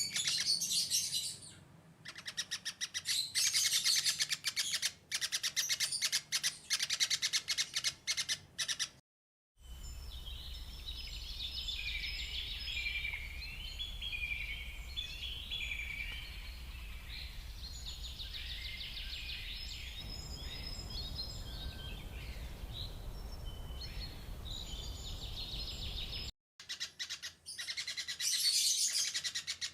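Birds chirping and calling in three spliced recordings. It opens with rapid, dense chirping, breaks off into a moment of silence about nine seconds in, and goes on with gliding, warbling song over a low hum. After another brief break near the end, rapid chirping returns.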